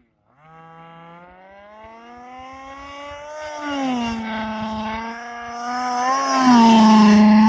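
Small 23cc gas engine of an HPI Baja 5B RC car, with its stock muffler, running at high revs. The pitch climbs over the first few seconds, then holds as the sound grows louder, loudest near the end.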